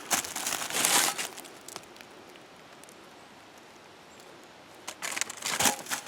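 Rustling and crunching in dry leaves and debris, in two bursts: one in the first second and one about five seconds in, with a quiet stretch between.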